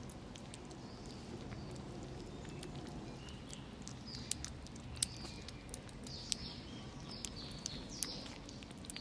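Kittens eating: scattered wet smacking and chewing clicks, with short high chirps in the second half.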